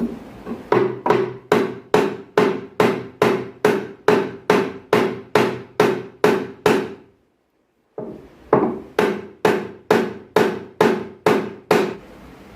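Hammer blows struck in a steady, even rhythm of nearly three a second, each blow ringing with a steady tone from the struck part. They stop dead for about a second partway through, then carry on in the same rhythm.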